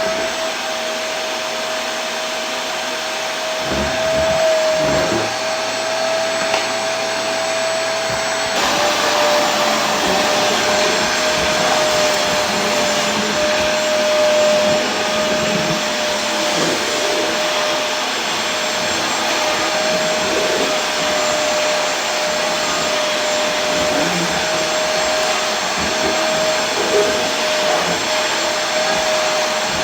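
Vacuum cleaner motor running steadily: a continuous rushing air noise with a steady whine. The whine steps down slightly in pitch about eight seconds in.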